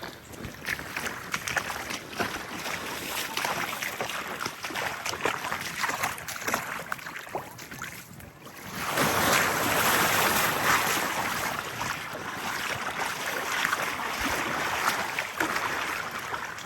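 Small waves washing onto a sandy beach, one wave breaking and surging louder about nine seconds in before easing off, with some wind on the microphone.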